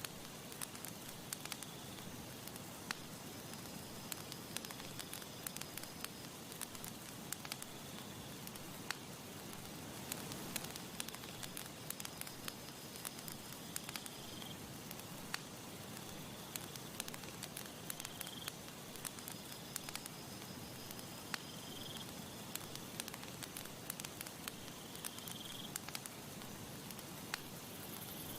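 Campfire burning, with irregular sharp crackles and pops over a steady hiss. A faint high chirp recurs every three to four seconds.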